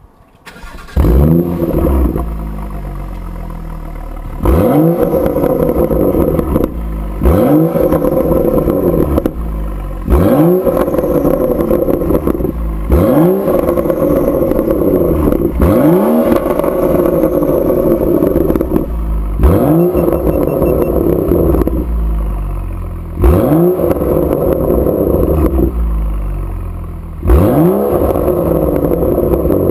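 BMW M135i engine through a BCS stainless steel performance exhaust, free-revved at standstill: about nine quick blips of the throttle, each rising sharply in pitch and dropping back to a steady idle, roughly every three seconds.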